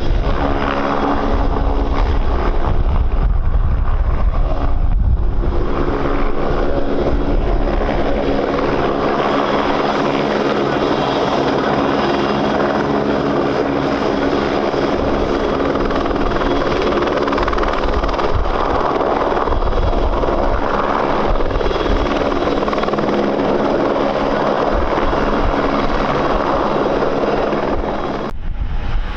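Airliner's engines running steadily with a hum of several even tones over a hiss, as wind buffets the microphone with a deep uneven rumble. The sound breaks off abruptly near the end.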